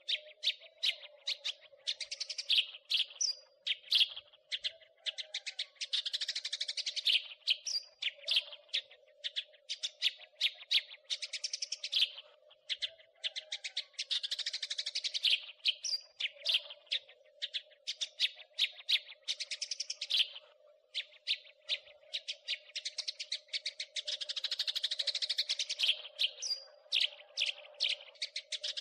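House sparrows chattering: continuous rapid runs of short, high chirps, with louder clustered bursts every second or two. A faint steady hum sits underneath.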